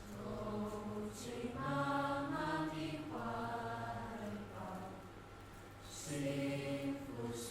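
Voices chanting or singing in long held notes that step up and down in pitch, with a few hissed consonants.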